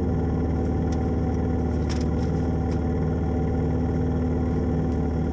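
1994 Yamaha Timberwolf 4x4 quad's single-cylinder engine idling steadily, with a few faint clicks.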